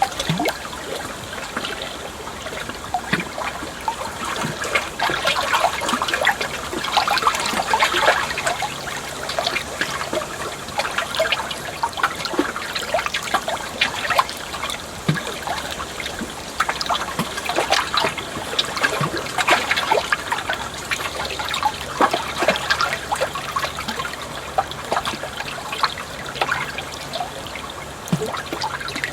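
Water flowing and trickling continuously, a dense pattering of many small splashes over a steady rush.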